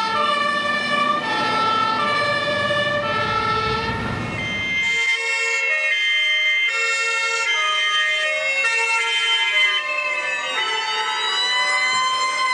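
Fire truck sirens sounding. Two-tone sirens step back and forth between two pitches, over a low rumble of engines and road that stops about five seconds in. Near the end a siren wails slowly up and down.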